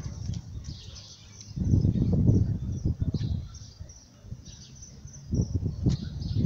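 Small birds chirping in short high notes, with two bouts of low rumbling wind buffeting the microphone, about a second and a half in and again near the end.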